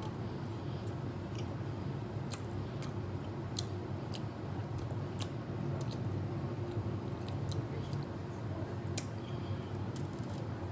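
Chewing a mouthful of barbecue-sauce-topped honey bun, with short wet mouth clicks scattered throughout and a second bite near the end, over a steady low hum.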